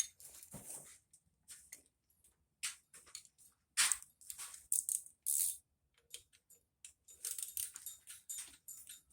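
Irregular metallic clinks, scrapes and short runs of ticking from a wrench working nuts down onto the manifold studs of a 1951 Farmall Super A engine, as the intake and exhaust manifold is snugged down.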